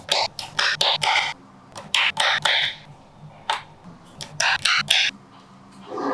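Small magnetic balls clicking and rattling together in quick bunches of snaps, with short pauses between.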